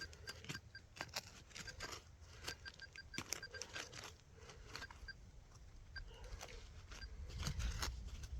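A metal detector giving rapid short beeps in several bursts as it is swept over a target in a dig hole, mixed with scattered clicks and crunches of digging in the soil. A low rumble builds near the end.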